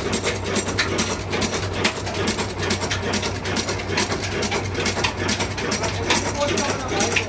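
Old Ruston stationary engine running, with a steady low hum under a rapid, even mechanical clatter.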